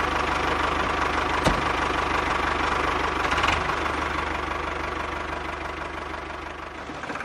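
A motor running steadily with an even, rapid pulsing, with one sharp click about a second and a half in. It slowly fades over the second half.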